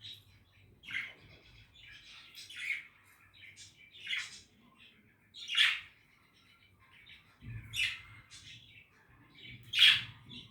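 Budgies (budgerigars) calling: a series of short chirps and squawks, about one every one to two seconds, with the loudest call near the end.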